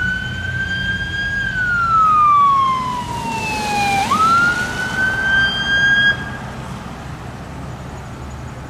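Fire engine's siren wailing as it passes, rising quickly, holding and then sliding slowly down before jumping back up. It cuts off about six seconds in, leaving the low rumble of vehicle and road noise.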